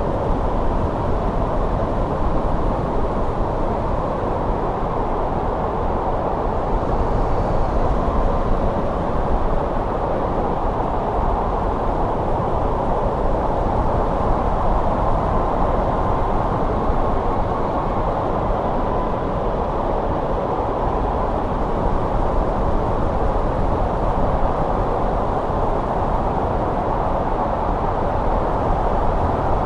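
Steady winter wind, a low, even rushing that neither rises nor falls.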